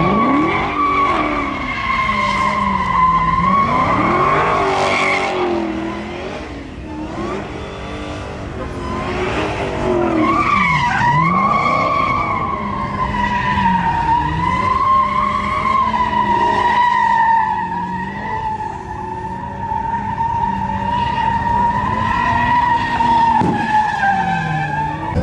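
Truck doing a burnout: the tires squeal in one long, wavering high tone while the engine revs up and down repeatedly underneath. The squeal eases briefly about a quarter of the way in, then comes back strongly.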